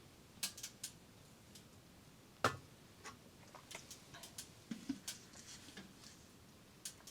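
Scattered light clicks and taps of small hard objects being handled, with one louder knock about two and a half seconds in.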